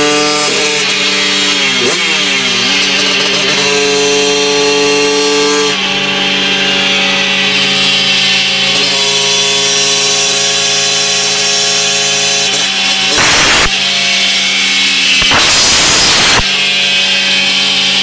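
Honda MT8 moped's tuned two-stroke engine with a 113cc Malossi kit, running steadily at high revs. There is a brief dip in pitch about two seconds in, and two short bursts of hiss near the end.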